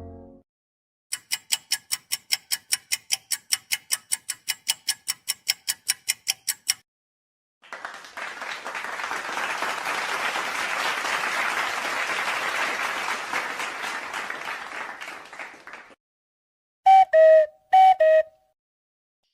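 Back-to-back sound effects: first a rapid, high ringing repeated about five times a second for some six seconds, then a long swell of applause-like noise that fades out, then a few short descending two-note beeps near the end.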